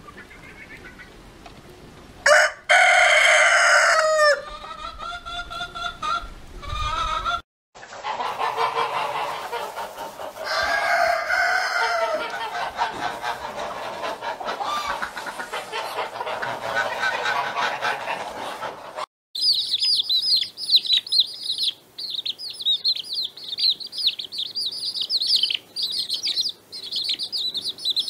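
Chickens: a rooster crows once, loudly, about two seconds in, followed by hens clucking and calling. In the last third many young chicks peep rapidly and continuously in high chirps.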